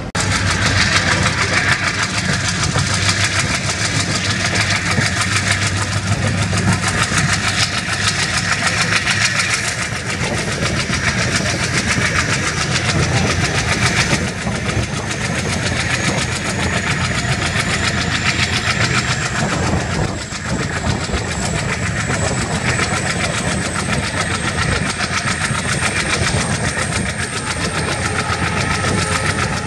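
Passenger train running at speed, heard from an open coach doorway: a steady rumble of wheels on rail and rushing wind, with the engine drone of the twin ALCo diesel locomotives hauling it. A thin high whine slowly rises in pitch through the second half.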